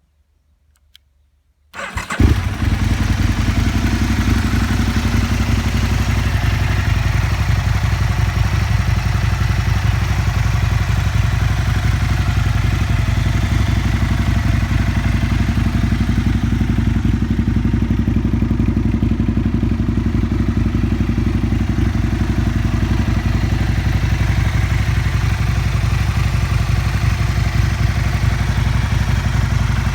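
Aprilia SL 1000 Falco's V-twin engine, breathing through a full LeoVince SBK exhaust, starting about two seconds in. It catches after a very brief crank and settles into a steady idle.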